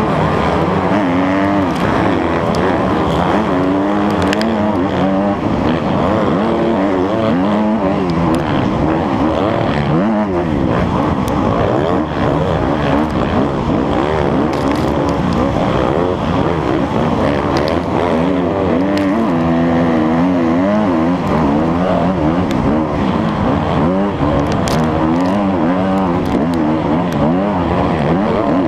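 Motocross bike engine revving up and down continuously as it is ridden around the track. Its pitch climbs and drops again and again with throttle and gear changes.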